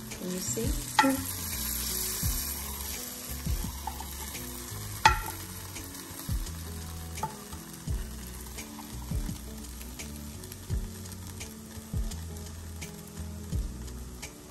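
Peppers and mushrooms sautéing in a pan with oil and vegetable stock: a steady sizzle, stirred, with a few sharp knocks, the loudest about five seconds in.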